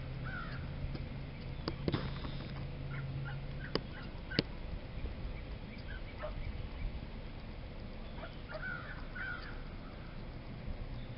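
Birds give short, crow-like calls a few times, most clearly near the end, over open-air background. A few sharp clicks come around two seconds and four seconds in, and a steady low hum stops about four seconds in.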